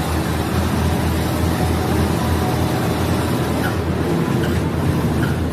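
Diesel multiple-unit railcar running, a steady low engine drone mixed with even running noise.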